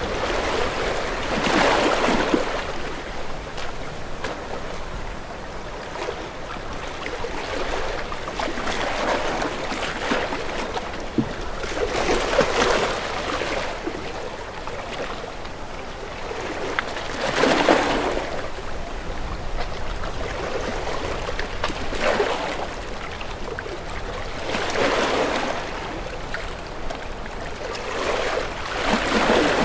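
Sea waves washing and lapping, rising in noisy surges every few seconds and ebbing between them.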